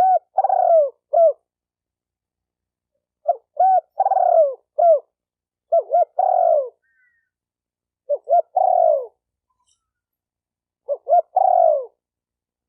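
Spotted dove cooing: five phrases, one roughly every two and a half seconds. Each phrase is a few short coos with one longer coo that falls in pitch.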